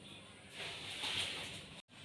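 A soft rushing hiss that swells about half a second in and breaks off abruptly near the end.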